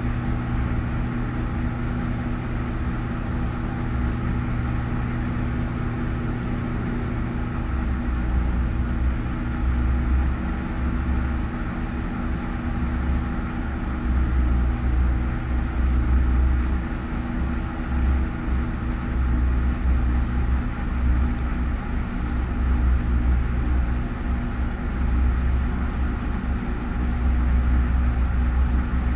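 Washing machine running: a steady motor hum with a deep rumble that swells and fades every second or two as the drum turns.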